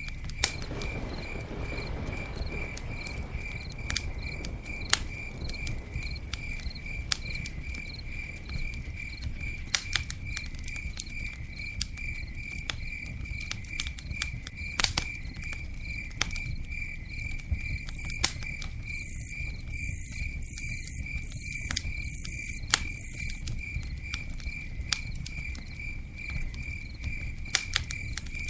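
Campfire crackling, with sharp irregular pops over a low steady rumble, while a cricket chirps in an even, rapid pulse of one high note.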